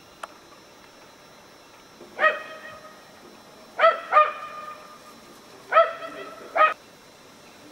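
A dog barking five times in short, fairly high-pitched barks: one about two seconds in, then a quick pair, then another pair near the end. A brief sharp click sounds just after the start.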